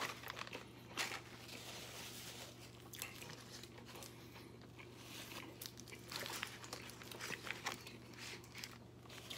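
Faint close-up chewing of a mouthful of burrito, with scattered small clicks and crinkles as the foil wrapper is handled.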